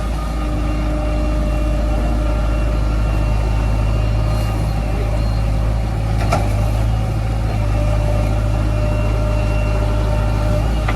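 Heavy diesel engine running steadily, from the backhoe loader or the truck being loaded, with a single sharp knock about six seconds in.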